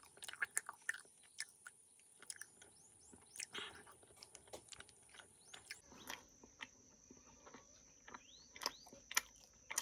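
Close-up chewing of honey: many short wet, sticky mouth clicks and smacks, with a few faint high chirps behind them.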